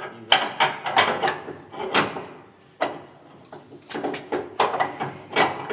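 Repeated metal clunks and rattles in irregular bunches, as the 1931 Chevrolet's jammed starter is worked at to free it.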